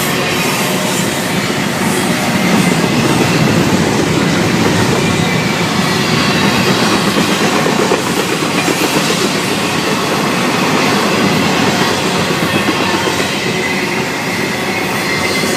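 Florida East Coast Railway freight cars rolling past at track speed: a loud, steady rumble of steel wheels on the rails.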